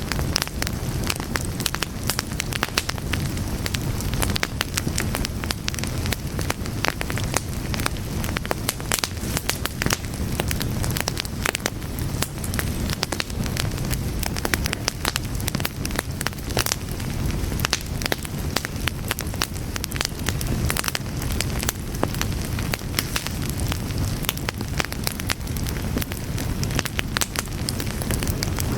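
Fire burning with a steady low rumble and many irregular sharp crackles and pops.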